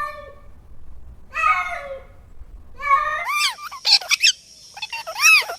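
A series of high-pitched animal cries: a single call at the start, another about a second and a half in, then a cluster of short arching calls in the second half.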